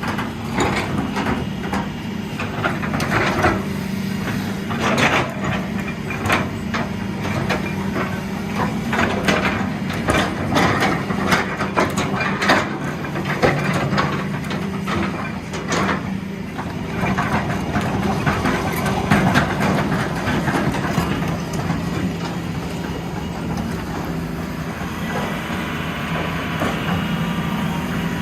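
Heavy diesel engines of an excavator and a stuck truck running steadily, with many sharp knocks, cracks and creaks through the first half or so. The knocks thin out later, and a higher hiss comes in near the end.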